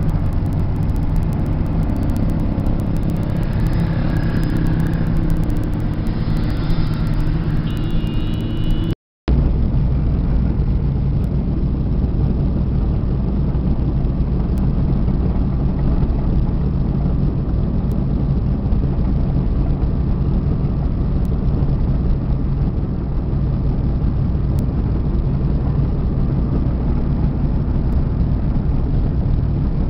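An engine running steadily at idle, with a short break about nine seconds in where the recording cuts.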